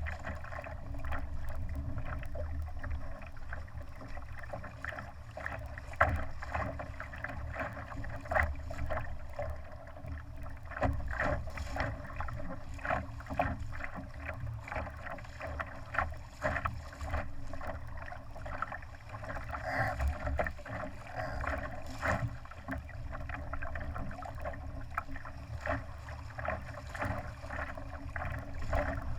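Water splashing and slapping against the hull of a Laser sailing dinghy under way: an uneven run of short splashes over a steady low rumble.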